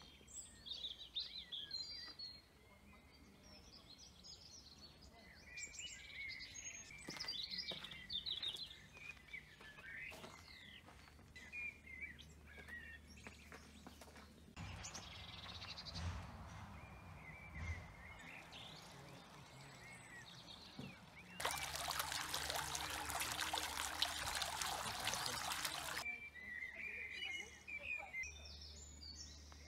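Garden birds singing and calling, with short chirps and warbles. About two-thirds of the way through, a steady hiss lasting about five seconds starts and stops abruptly and is the loudest thing heard.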